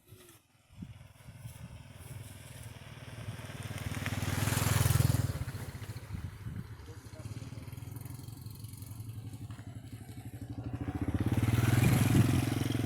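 A small engine running, swelling louder twice: once about five seconds in and again near the end.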